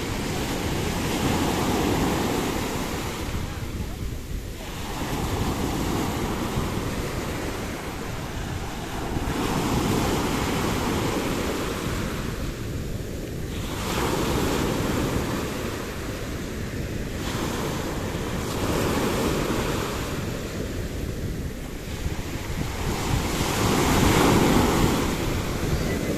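Sea waves washing onto the shore, swelling and falling back about every four seconds, the loudest near the end, with wind rumbling on the microphone.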